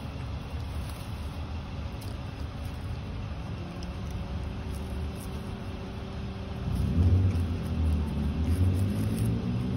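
A motor vehicle's engine running with a steady low hum, growing louder about seven seconds in.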